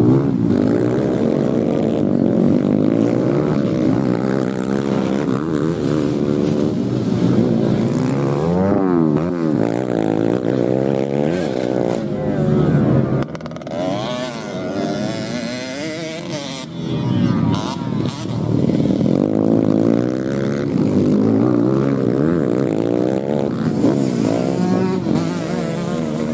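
Several motocross dirt bikes racing, their engines revving up and down as they shift and pass, with many pitches overlapping. The engines fall back about halfway through, then build up again.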